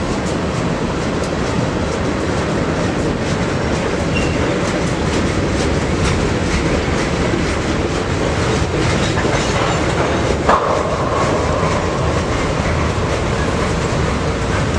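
Freight train rolling past, its wheels clicking over rail joints. About ten seconds in there is a sharp knock, followed by a thin, steady wheel squeal.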